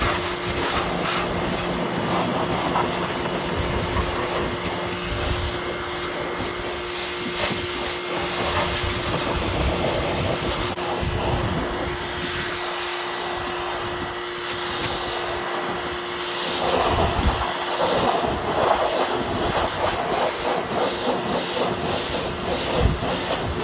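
Steady loud rushing noise with a constant machine hum under it, starting suddenly at the outset, with strong wind buffeting the microphone.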